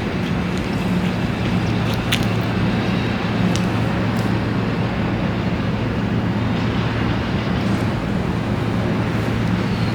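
A steady low motor hum over a constant background noise, with a few faint clicks.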